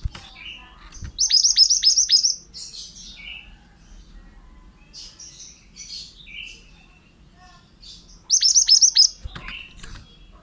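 Pied bushchat (mantenan) singing: two loud bursts of quick, high, downward-sweeping notes, one near the start and one near the end, with softer scattered chirps between them.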